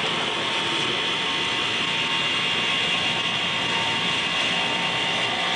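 A motor-generator set, an induction motor driving a generator, running together with an electric drill press: a steady mechanical whir with a constant high whine.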